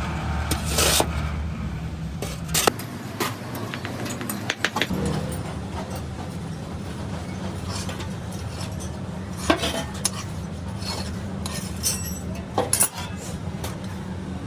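Scattered sharp metallic clinks and scrapes over a steady low machine hum, typical of work in a small foundry.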